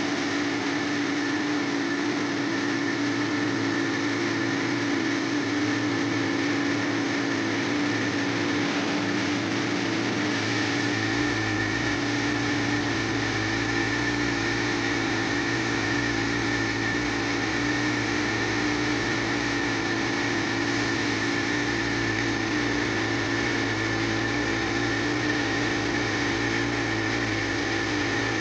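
Steady machine hum, running evenly with a few fixed tones, and a deeper rumble joining in about eleven seconds in.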